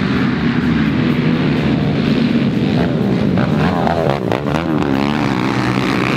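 Several racing ATV (quad) engines running hard at full throttle. About halfway through, their engine notes climb and fall repeatedly as riders rev, shift and pass close by.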